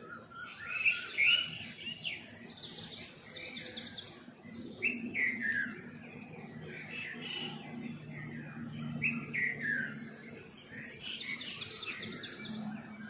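Several small songbirds chirping and singing. A quick run of high, evenly spaced notes comes twice, mixed with shorter falling calls, over a faint low hum.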